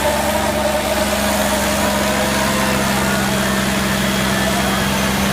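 Tractor engine running at a steady speed, loud and unchanging.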